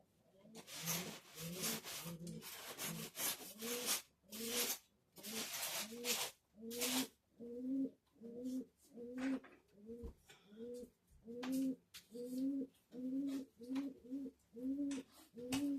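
Model train running on the layout: a low, moaning squeak repeats about twice a second, like a wheel or truck rubbing once per turn, with scraping rolling noise over the first half.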